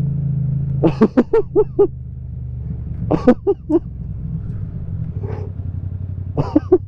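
Yamaha MT-07's parallel-twin engine with an Akrapovic titanium exhaust running steadily, heard through a helmet mic. Over it, three short bursts of the rider's laughter, each a quick run of four or five "ha"s.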